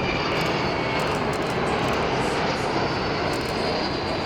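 Avro Vulcan's four Olympus turbojets in a steady jet roar, with a high whistling tone above it that rises slightly in pitch.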